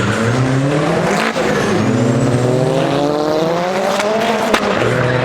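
A performance car's engine accelerating hard, its pitch climbing steadily through the gears, with a short break and crack about a second in and another near the end as it shifts up.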